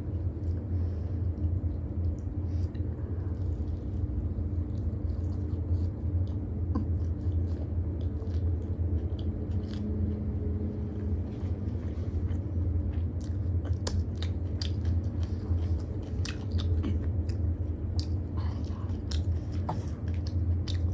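Close-miked biting and chewing of a crisp fried spring roll dipped in chutney: wet mouth sounds with scattered crunches and clicks that come thick and fast in the second half. Under it runs a steady low hum.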